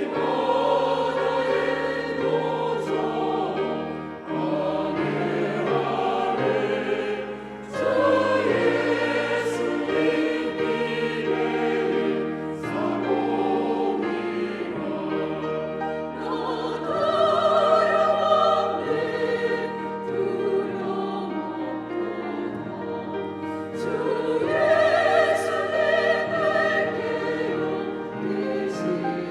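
Church choir singing an anthem in parts, with sustained low accompanying chords underneath.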